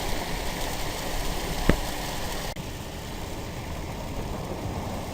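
Steady rushing noise of rain and a vehicle moving on wet ground, with a single sharp knock a little under two seconds in.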